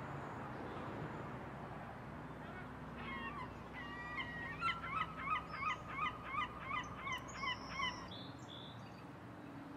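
A bird calling in a quick series of about a dozen calls, two or three a second, over a faint steady outdoor hiss; the calls start a few seconds in and stop near the end.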